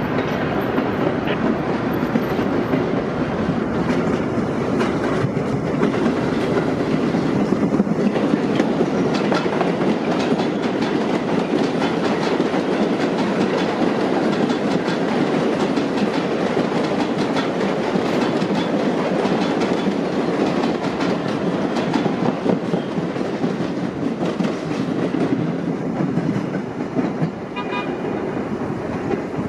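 New York City Subway train running past on steel rails, its wheels and cars rattling and clattering steadily, with a short pitched tone near the end.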